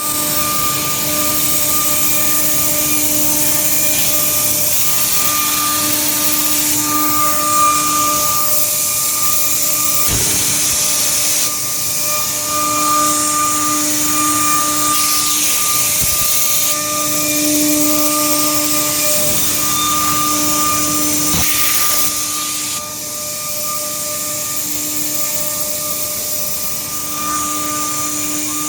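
CNC router spindle running and cutting a dimpled texture into a wood panel: a steady machine hiss with a whine that swells and fades every few seconds as the cutter works.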